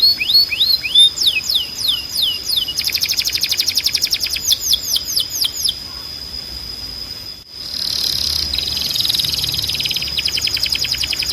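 Timbrado canary singing: a run of quick falling whistled notes, then fast rolling trills. The song dips briefly about seven and a half seconds in, then resumes with a dense trill.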